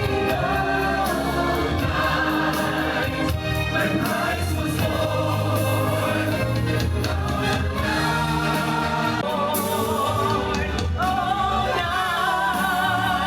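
A choir singing a Christmas song over instrumental backing, with wavering sustained sung notes.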